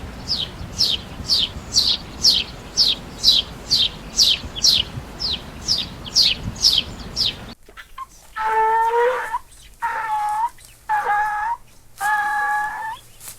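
A bird chirping, a fast run of short, sharply falling high notes, two to three a second. After about seven seconds it cuts to a different animal giving five longer pitched calls.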